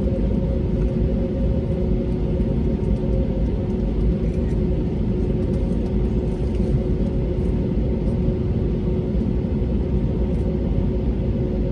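Steady cabin noise of an Airbus A320neo with its Pratt & Whitney PW1100G geared turbofans running, heard from inside the passenger cabin: a deep, even rumble with two steady humming tones over it.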